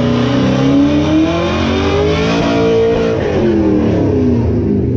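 A car engine running, its pitch climbing steadily for about two and a half seconds and then falling away again.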